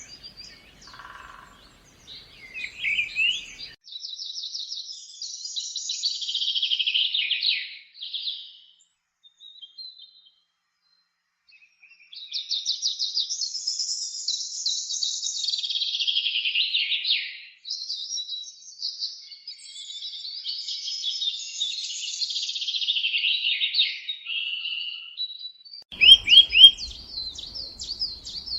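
Songbird singing long phrases of rapid trills that slide down in pitch, three long songs with short pauses between them, and a few sharp chirps near the end.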